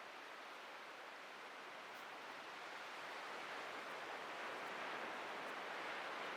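Ocean surf washing onto a beach: a steady hiss of breaking waves that swells gently in the second half.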